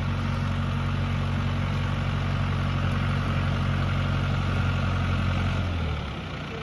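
John Deere farm tractor's diesel engine running steadily under throttle. Near the end the engine note drops away to a quieter, rougher idle.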